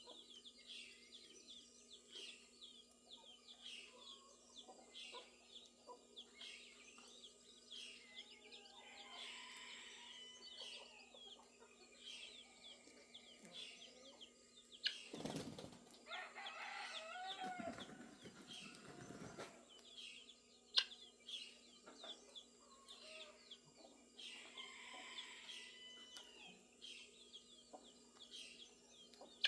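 Faint farmyard birds: chickens clucking and small birds chirping over and over, with a flurry of wing-flapping about halfway through.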